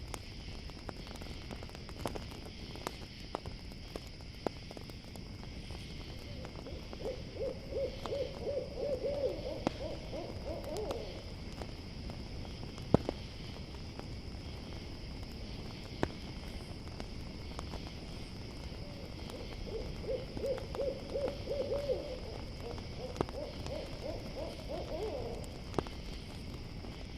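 An owl calling twice, each call a rapid run of hoots lasting several seconds and rising slightly in pitch toward its end. Under it, crickets chirr steadily and a campfire crackles with scattered pops, one sharp pop about halfway between the two calls.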